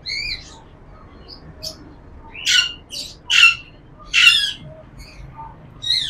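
Caged birds calling: a couple of short chirps, then three loud harsh squawks about a second apart from around two and a half seconds in, with lighter chirps between them.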